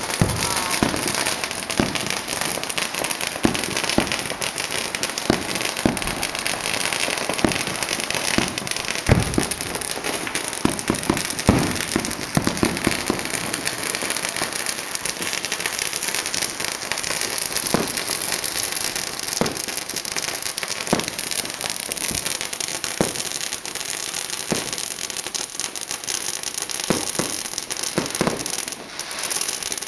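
Fireworks and firecrackers going off without a break: a dense, steady crackle with many separate louder bangs scattered through it, one of the loudest about nine seconds in.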